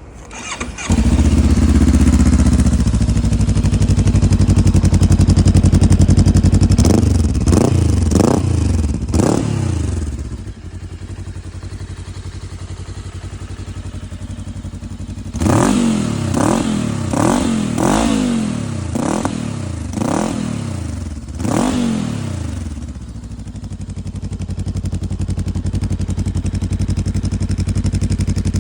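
Voge Valico DSX 525's parallel-twin engine breathing through a GPR Furore Evo4 exhaust. It holds raised revs for several seconds, then gets three quick throttle blips and drops to idle. About six more blips follow, roughly one a second, before it settles back to idle.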